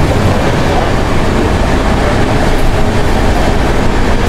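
Steady running rumble of a moving passenger train heard from inside a vista dome coach.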